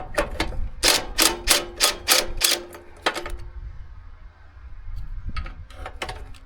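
Socket ratchet wrench clicking in a quick run of sharp metallic clicks, about three a second, as a battery hold-down nut is loosened; a few more scattered clicks follow near the end.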